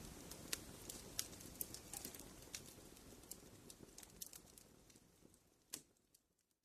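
Wood fire crackling in a fireplace: frequent sharp pops and snaps over a soft low rumble. The sound fades down toward the end, with one louder pop shortly before it dies away.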